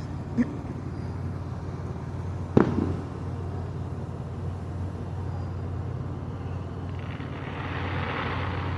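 Fireworks: one sharp bang about two and a half seconds in, after a smaller pop near the start. A hiss swells near the end over a steady low hum.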